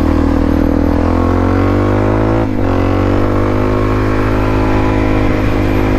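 Dirt bike engine running under steady throttle, its pitch slowly climbing, dropping briefly about two and a half seconds in, then climbing again.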